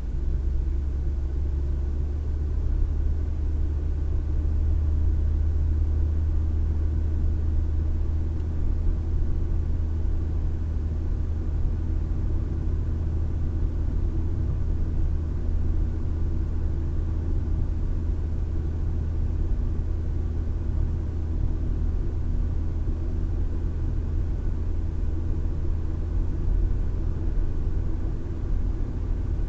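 Steady low rumble of a car driving at a constant speed, engine and tyre road noise heard from inside the cabin through a dash cam's microphone.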